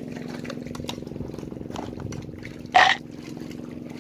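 Longtail boat engine running steadily with a low drone, and one brief loud burst of noise about three seconds in.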